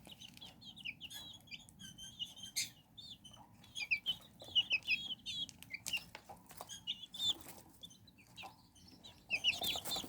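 Young chicks peeping: many short, high chirps, some sliding down in pitch, with a few sharp clicks in between.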